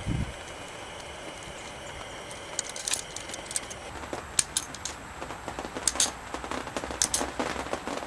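Sharp metallic clicks and clinks, as of tools and alternator parts being handled, scattered irregularly and most frequent in the second half. A faint steady hum stops about four seconds in.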